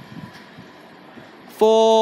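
A single short, steady blast of a train horn near the end, over low background noise.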